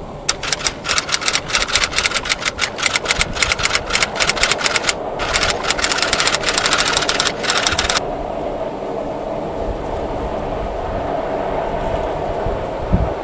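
Passenger train passing close by: a fast, even clicking clatter that breaks off briefly about five seconds in and stops suddenly about eight seconds in, over a steady rumble that carries on.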